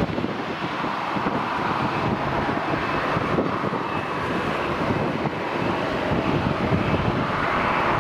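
Jet airliner engines giving a steady rushing noise that slowly grows louder, with wind buffeting the microphone.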